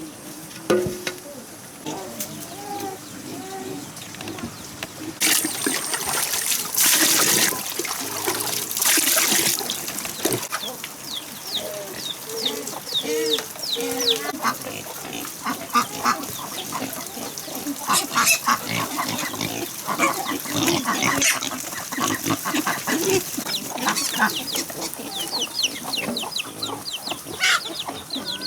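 Farm ducks quacking and calling among poultry, with many quick, high, falling peeps from young birds through the second half. A few bursts of rushing noise come between about five and ten seconds in.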